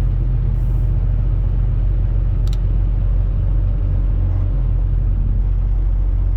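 Steady low rumble of a semi-truck's engine, heard from inside the cab, with one short click about two and a half seconds in.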